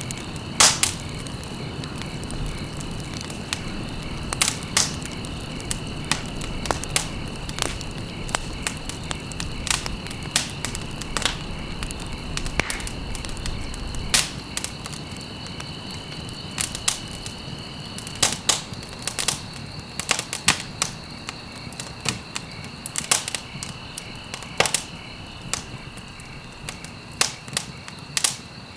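Wood fire burning in a fireplace, crackling with sharp, irregular pops over a steady low rumble of the flames. A faint, steady high-pitched tone runs underneath.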